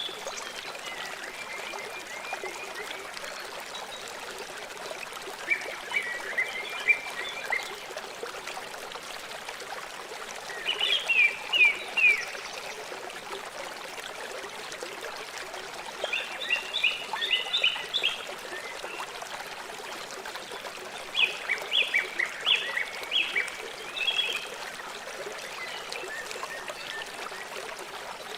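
A river running steadily, with a bird singing short phrases of quick high notes about every five seconds.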